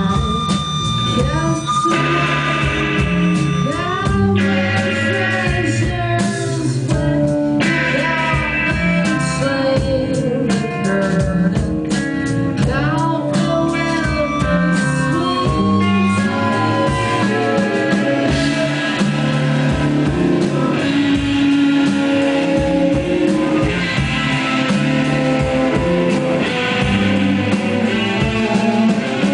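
Live rock band playing a song: guitar, bass and drum kit, with a singing voice over them.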